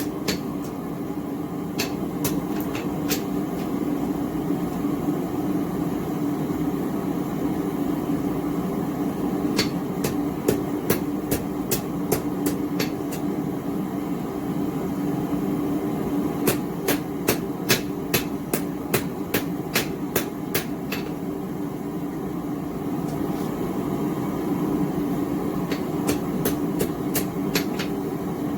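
Hammer blows on hot steel over an anvil, in runs of several strikes about two a second with pauses between, over the steady rush of a small gas forge burner.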